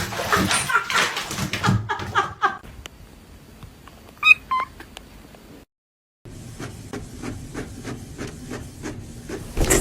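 Two short, high cat meows in quick succession about four seconds in, the loudest sound here. They follow a stretch of other pitched animal or voice sounds, and after a brief cut comes a faint run of evenly repeated short taps.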